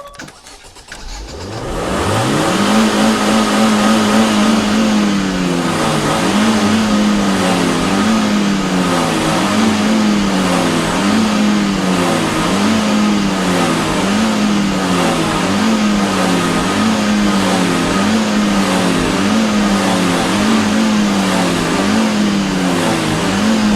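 Car engine starting up with the accelerator floored, its pitch sweeping up about a second in, then revved over and over by pumping the pedal, the revs rising and falling about every second and a half.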